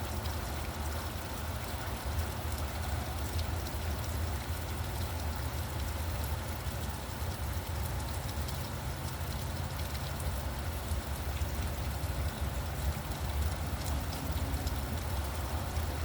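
Steady rain with many small drop ticks, over a low, steady rumble of road traffic.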